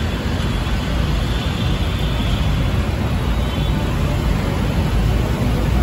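Kia Seltos engine idling with a steady low rumble.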